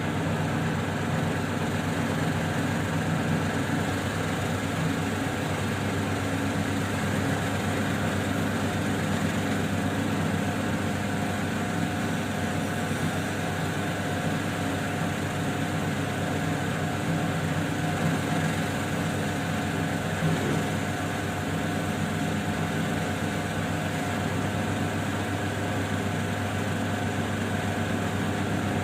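Lapidary grinding machine running steadily with a 1200-grit wheel and its water feed on, a steady motor hum while a small opal is ground down against the wet wheel.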